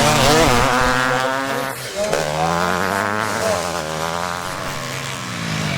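Classic motocross bikes racing on the track, engines revving hard and wavering in pitch. One bike's sound breaks off just under two seconds in and another takes over, its pitch falling away as it passes.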